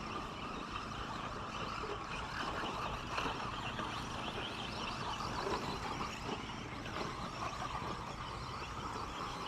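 Several 2WD radio-controlled short course trucks racing together, their motors running in a steady, blended whine with no pauses.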